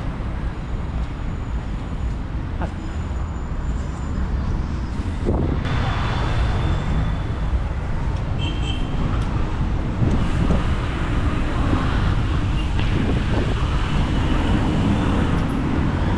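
Wind rumbling on the microphone while cycling along a city street, with road traffic going by.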